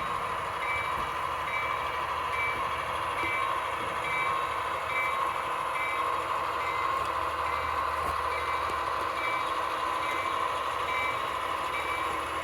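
Sound-equipped HO-scale Athearn SW1500 switcher model: a steady low diesel hum under a ringing tone that repeats about one and a half times a second, like a locomotive bell rung while the switcher moves.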